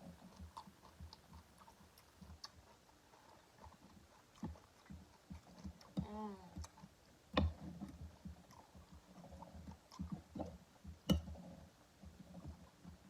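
Close-miked chewing and mouth sounds of a person eating, with irregular small crunches and clicks and two louder sharp crunches or knocks, about seven and eleven seconds in.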